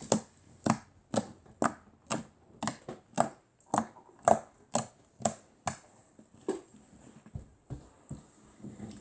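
Hands squeezing and pressing a homemade squishy or soft slime for ASMR, each squeeze giving a short sharp click or pop, about two a second, fading to fainter scattered clicks over the last couple of seconds.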